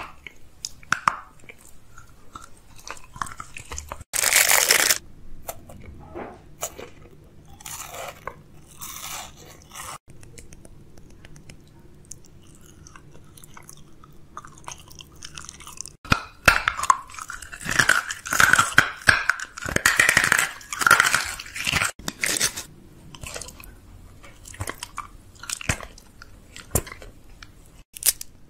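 Close-miked mouth sounds of someone eating: bites, crisp crunches and wet chewing of a series of different foods, in short segments that change every few seconds. The densest, loudest crunching comes about two-thirds of the way through.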